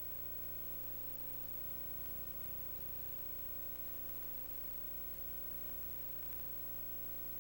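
Steady hiss and electrical hum with a constant mid-pitched tone, unchanging throughout, with no other sound.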